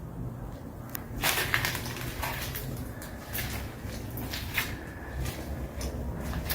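Irregular scrapes, clicks and knocks over a steady low rumble, the loudest cluster about a second in.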